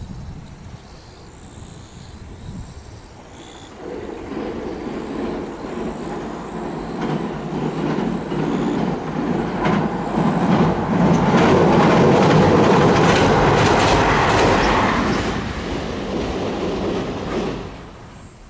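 JR West 521 series electric train crossing a steel girder railway bridge. It grows louder from a few seconds in and is loudest as it passes, with rapid clacking of its wheels over the rail joints, then drops away quickly near the end.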